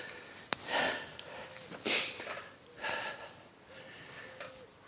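A man breathing hard, with heavy breaths about once a second, out of breath from climbing a steep hill. A single sharp click comes about half a second in.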